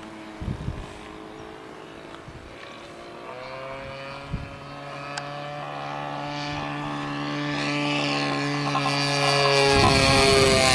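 Engine of a radio-controlled P-47 Razorback model plane in flight: a steady drone whose pitch shifts a few times and which grows much louder over the last few seconds as the plane comes closer. A few brief wind buffets on the microphone.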